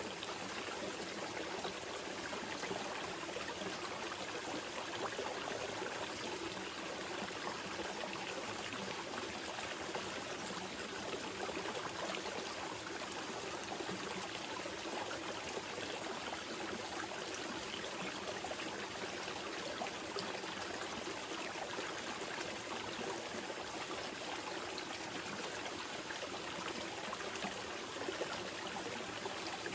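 Small mountain river flowing steadily over rocks, a continuous gentle rush with light trickling.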